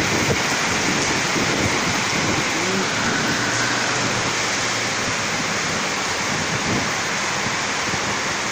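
Steady rush of rain and strong wind, an even hiss with no breaks.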